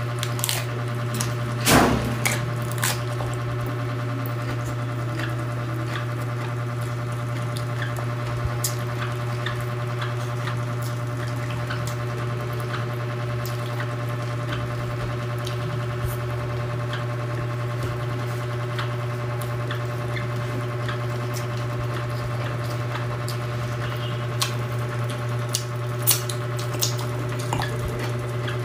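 Close-up mouth sounds of someone eating raw cabbage leaves and rice by hand: wet chewing, crunching and lip smacks in scattered short clicks, busier in the first few seconds and again near the end. Under them runs a steady low hum.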